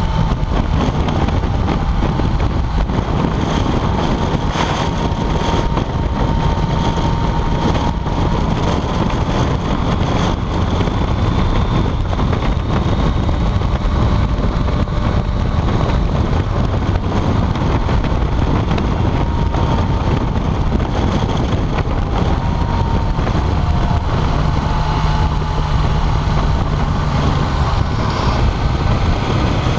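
BMW K75 motorcycle's three-cylinder engine running steadily at road speed, with wind noise on the microphone.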